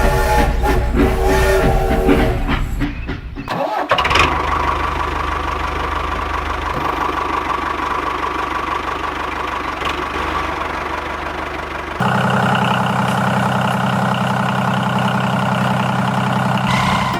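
A whistle-like tone dies away in the first couple of seconds; after a short break an engine starts and runs steadily. About twelve seconds in, the sound cuts suddenly to a different, lower, steady engine idle.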